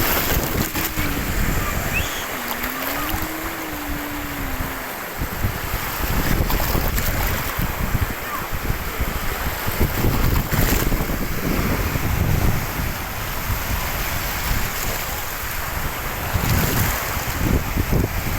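Steady rushing of sea waves with wind buffeting the microphone, a continuous noisy roar heavy in the lows.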